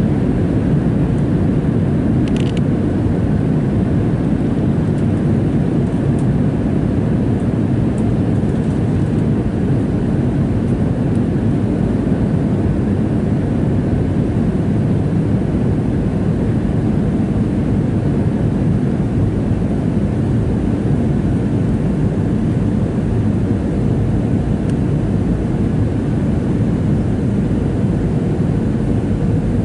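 Steady cabin noise inside a Boeing 737-700: an even rush of engine and airflow noise with a deep drone, unchanging throughout. A faint click sounds about two and a half seconds in.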